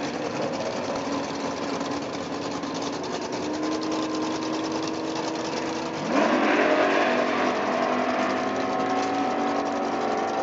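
1967 Chevelle SS's V8 engine running steadily, then about six seconds in it jumps sharply in pitch and loudness and holds a fast idle.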